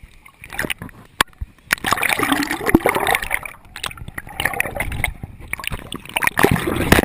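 Water splashing and gurgling close to the camera in irregular bursts, with a few sharp knocks.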